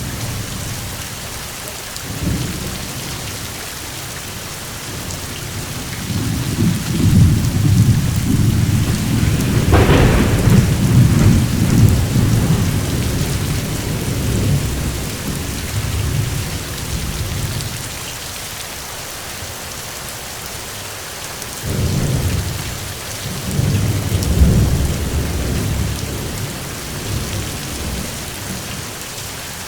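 Steady heavy rain falling, with rolling thunder. A long roll builds about a fifth of the way in, with a sharper crack in its middle, and two shorter rumbles follow later.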